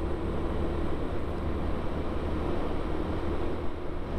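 Yamaha Vino 125 scooter's single-cylinder engine running steadily at road speed, with heavy wind rumble on the microphone.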